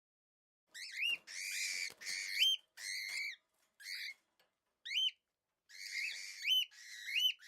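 A series of high, bird-like whistled calls begins about a second in: short rising chirps mixed with a few longer held notes, repeated irregularly.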